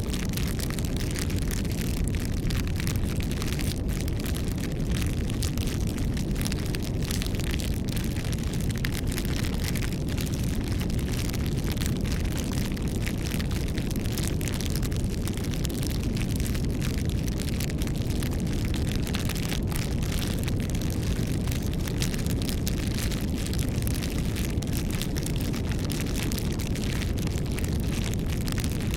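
Campfire burning: a steady low rumble of flames with a constant scatter of small crackles and pops from the wood.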